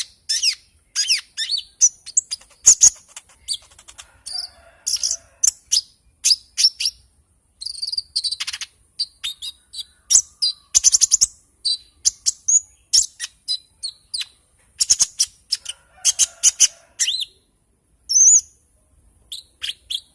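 A konin songbird singing: a fast, varied string of high chirps, sweeping notes and rapid trills in short bursts separated by brief pauses.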